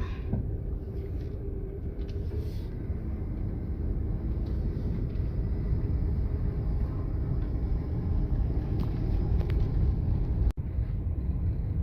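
Car on the move, heard from inside: a steady low rumble of engine and tyre noise.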